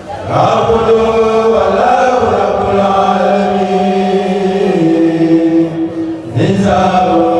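A kourel, a group of voices chanting religious verse together without instruments, in long held notes; the phrase breaks off briefly about six seconds in and a new one begins.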